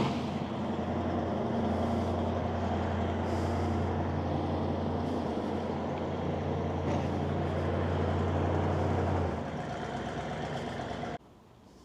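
A 1987 Chevrolet Monte Carlo SS's V8 idling steadily with a low hum. The deepest part of the hum drops away about nine seconds in, and the sound cuts off abruptly shortly before the end.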